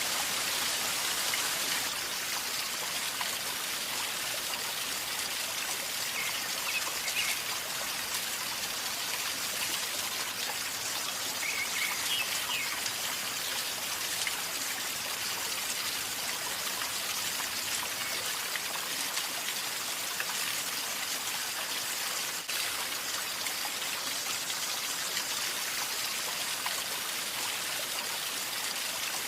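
A river flowing calmly over stones, a steady gurgling and trickling of running water.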